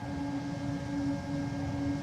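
Jet aircraft engine noise at an airport running steadily: a low rumble under a steady hum that breaks off briefly every half second or so, with faint high whining tones above.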